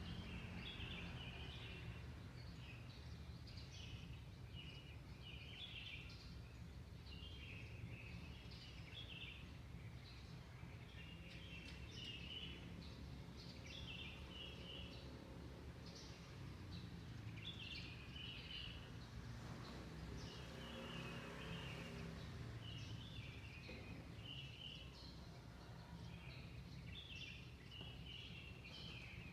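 Small birds chirping in quick, repeated bursts of high notes, faint, over a steady low background rumble. A soft hiss of noise swells briefly about twenty seconds in.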